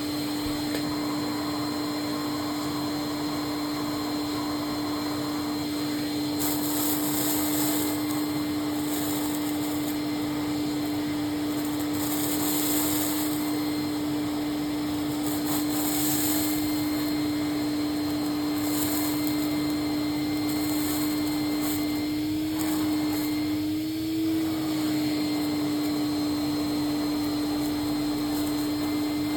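Hoover Constellation canister vacuum cleaner running with a steady motor whine, with several brief patches of extra high hiss. The motor's pitch rises slightly twice near the end.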